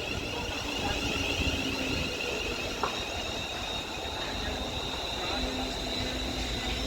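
Class 350 electric multiple unit arriving at a station platform, slowing with a low rumble and a steady high-pitched whine.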